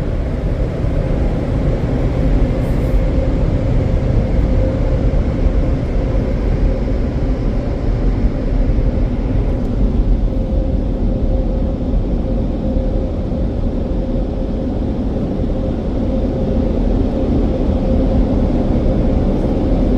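Premier car wash blower dryers running on the car: a loud, steady rush of air with a constant hum. The higher part of the rush eases off about ten seconds in.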